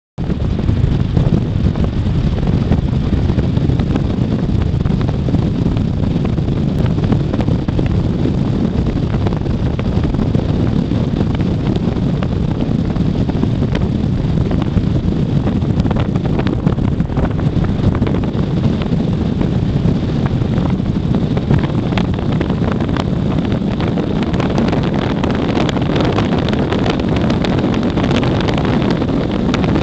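Wind buffeting the microphone: a steady low rumble with crackle.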